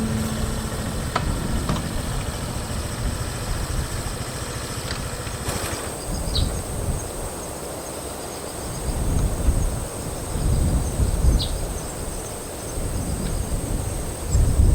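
Strong seaside wind buffeting the microphone in uneven low gusts that swell and fade, with two brief high chirps, one about six seconds in and one about eleven.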